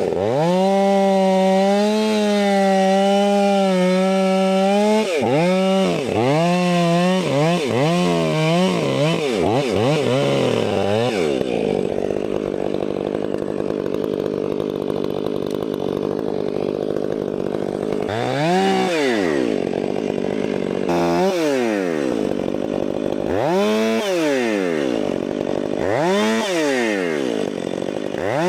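Two-stroke gas chainsaw held at full throttle with a slightly wavering pitch for about five seconds, as in a cut. It is then blipped up and down several times, runs low for a stretch, and near the end is revved up and let fall every couple of seconds.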